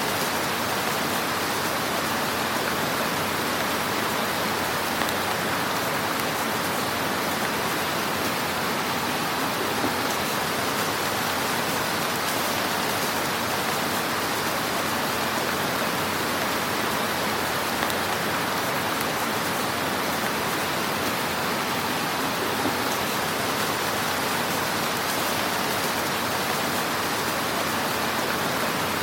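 Wood fire crackling in a fireplace: a steady hiss with a few small pops now and then.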